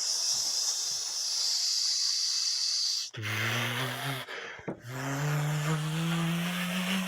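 A steady hiss for about three seconds that cuts off suddenly, then a low hummed note. The hum breaks off briefly, then resumes and slowly rises in pitch.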